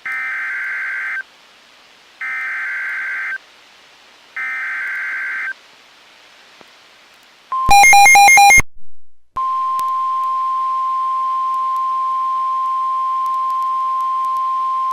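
Emergency Alert System data header: three shrill warbling bursts of about a second each, a second apart. Then a loud, harsh buzzing beep about a second long, and a single steady high alert tone held for several seconds, which signals that a weather warning message follows.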